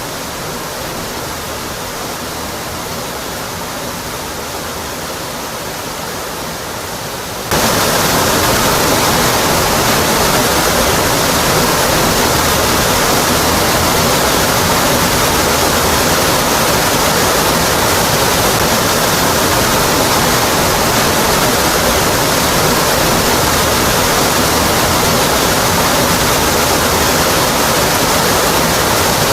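Waterfall: a steady rush of falling water. About seven seconds in it jumps abruptly louder and brighter and holds there.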